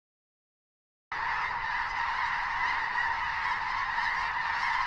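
Silence for about a second, then a flock of geese honking: many overlapping calls blending into one steady din.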